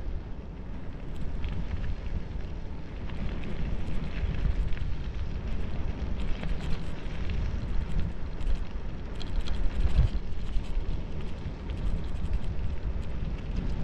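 Wind buffeting the microphone and the rumble of bicycle tyres on a downhill run, with scattered small clicks and rattles.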